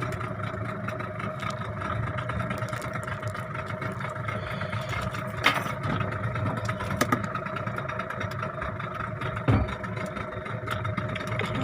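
Boat engine idling steadily, with a few sharp knocks partway through.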